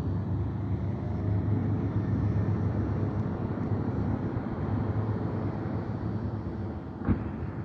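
PMX motorcycle engine running steadily with a low, rough rumble. A single sharp knock comes about seven seconds in.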